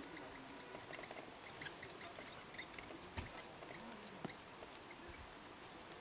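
Faint outdoor ambience with scattered small ticks and clicks, and a few brief, thin, high-pitched bird chirps.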